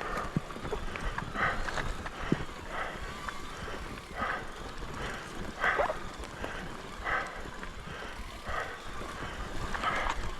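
Mountain bike rolling over a rough forest trail with occasional sharp knocks from the bike. The rider breathes hard in a regular rhythm, about once every second and a half.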